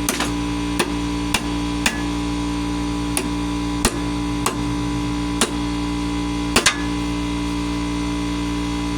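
About ten sharp, irregular knocks of a tool striking a socket stuck on a lawnmower blade bolt, to knock it loose. The last two come close together, then the knocking stops. A steady electrical hum underlies it.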